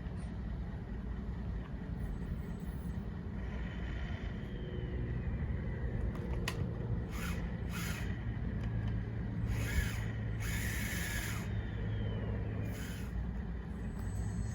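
Radio-controlled bulldozer working: a steady low mechanical hum, a motor whine that glides down in pitch a few seconds in and again near the end, and several short bursts of hiss or scraping.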